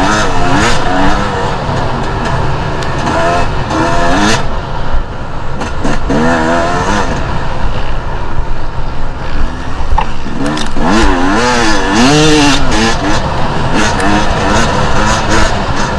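Two-stroke enduro motorcycle engine revving up and down over and over as it is ridden off-road, its pitch rising and falling every second or so, over a heavy noise floor.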